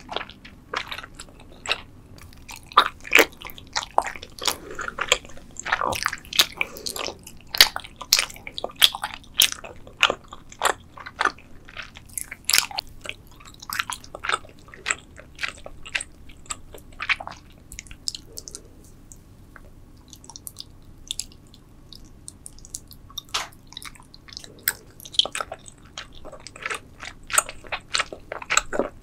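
Close-miked chewing of gummy spider candies: many small mouth clicks and smacks from biting and chewing the chewy gummies. They are thick through the first half, thin out for a few seconds past the middle, and pick up again near the end.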